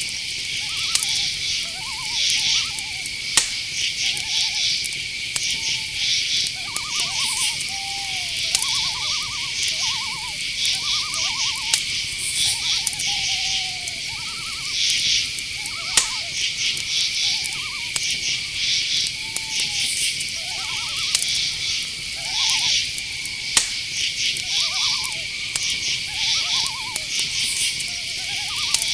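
Night forest chorus of crickets: a steady high drone with pulsed chirping above it. Many short pulsed calls from owls overlap lower down, some gliding downward, and a few sharp clicks sound about three, sixteen and twenty-four seconds in.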